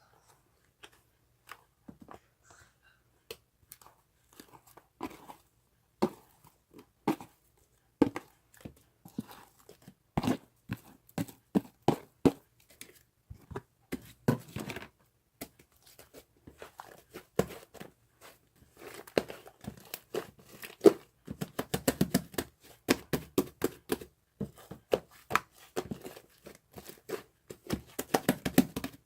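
Irregular crinkling and tearing sounds, a scatter of short crackles that come thicker and faster in the second half.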